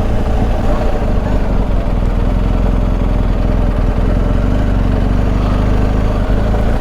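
BMW R1250 GS Adventure's boxer-twin engine running at steady revs, with wind and road noise over it.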